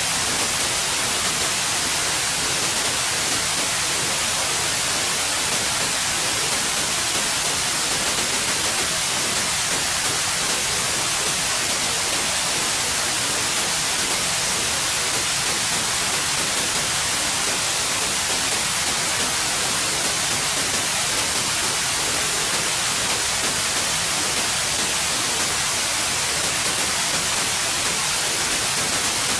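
Steady white noise: an even, unbroken hiss, brightest in the treble, with no changes in level.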